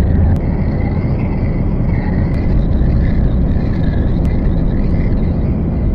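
Noise/drone music: a dense, steady wall of low rumbling noise with a thinner hiss that wavers in pitch above it, and a few faint clicks.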